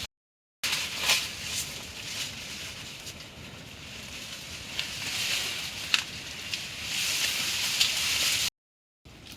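Steady hiss of rain falling, with scattered sharp taps through it. The sound cuts out completely for a moment just after the start and again near the end.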